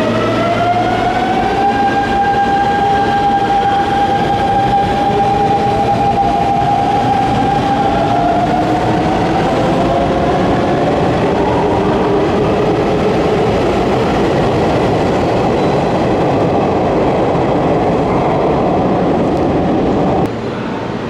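Electric commuter train accelerating away from the platform: its traction-motor inverter whine climbs in pitch, levels off, then climbs again in stages over the rumble of the wheels. The sound drops abruptly near the end.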